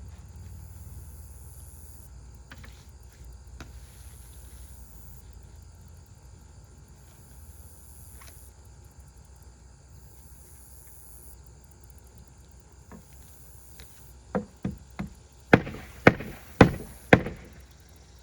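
Hammer driving a roofing nail: three light setting taps, then four hard blows about two a second, near the end.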